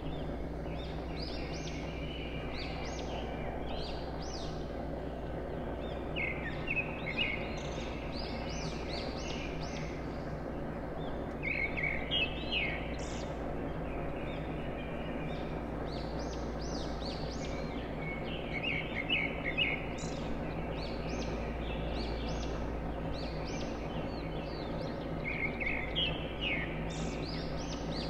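Birds chirping in short clusters of quick high notes that come back every few seconds, over a steady outdoor background noise.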